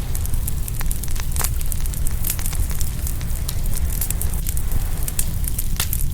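Open wood fire crackling and popping, with many sharp irregular pops over a steady low rumble.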